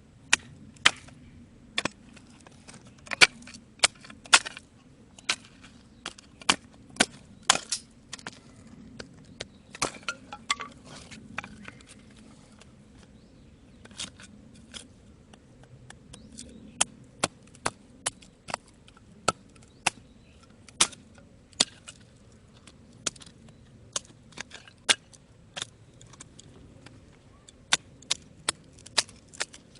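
Batoning firewood: a wooden baton striking the back of a blade driven into a hard log, sharp knocks about one or two a second with a short pause partway through.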